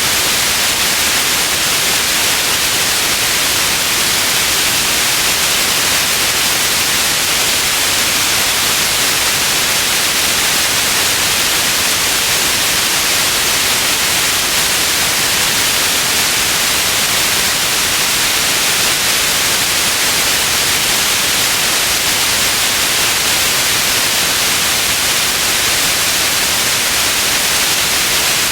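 Steady white noise: an even, unchanging hiss, brightest in the upper range, with no breaks or events.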